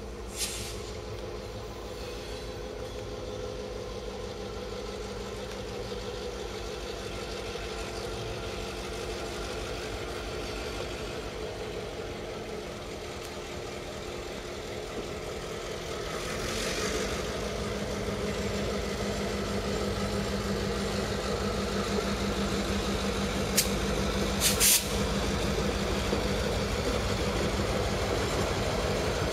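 Diesel locomotive engine running steadily, growing louder about halfway through, with a few brief hisses.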